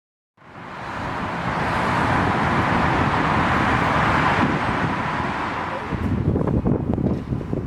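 Lamborghini Aventador with a Capristo exhaust driving by: a loud rushing roar that builds over about two seconds and holds, then turns into an uneven low crackle and rumble from about six seconds in.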